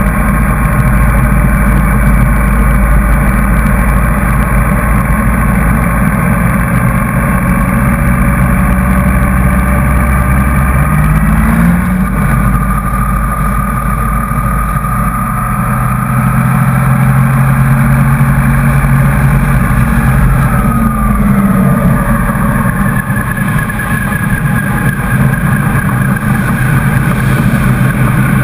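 Motorcycle engine running while riding at road speed, with wind noise on the microphone; the engine note rises about twelve seconds in and drops again around twenty seconds in.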